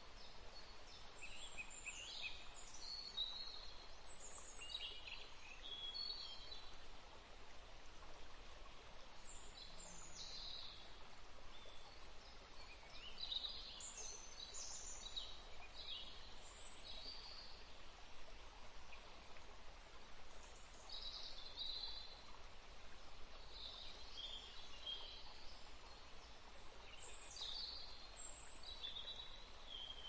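Small birds chirping in short, irregular calls, on and off, over a steady faint background hiss of outdoor ambience.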